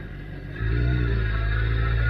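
Suzuki GSX-R1000 motorcycle's inline-four engine: a low rumble, then the throttle opens sharply about half a second in and the engine runs loud under hard acceleration.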